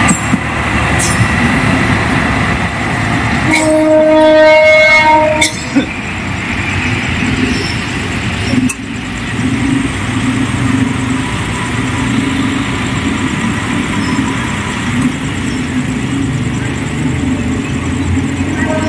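A passenger train's last carriage clattering past over the rail joints, then a train horn sounding for about two seconds, then the train's steady rumble as it moves away.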